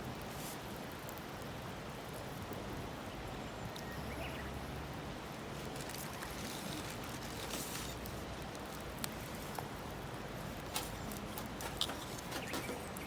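Wood bonfire burning with a steady hiss and scattered sharp crackles and pops from the burning firewood, coming more often in the second half.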